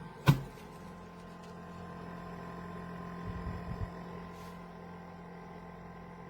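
A steady electric hum with several fixed tones. There is one sharp click about a third of a second in and a few soft low knocks a little past the middle.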